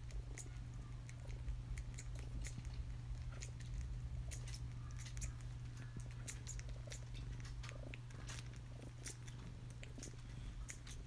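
Domestic cat purring close to the microphone, a steady low rumble, with scattered small clicks over it.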